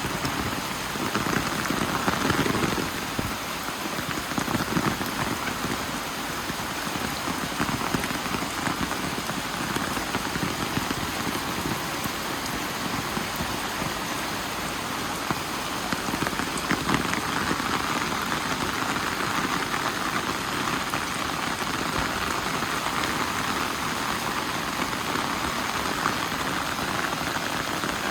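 Steady rain falling, a continuous even hiss with many small drop ticks.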